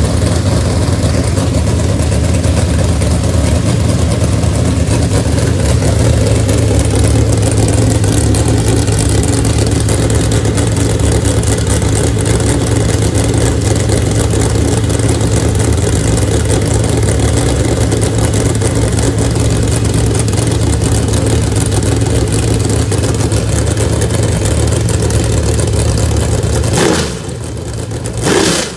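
496 cubic-inch stroker big-block Chevy V8 crate engine running steadily at a fast idle, then dropping off and given a quick rev near the end.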